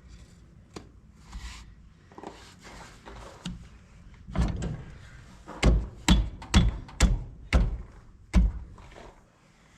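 A run of heavy hammer blows, about seven sharp strikes roughly two a second in the second half, with a few lighter knocks and clatter before them.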